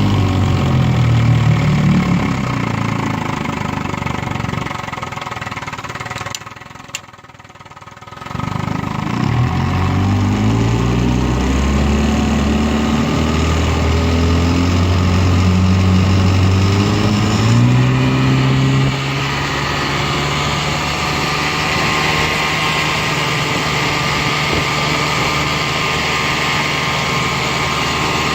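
Vintage 10 hp two-stroke outboard motor (a 1959 Johnson QD-20 with an Evinrude Golden Jubilee power head) running on a boat. Its speed falls over the first few seconds, and the sound drops away almost completely for about two seconds with a single click. It then climbs back up, holds steady, and steps up to a higher steady speed about eighteen seconds in.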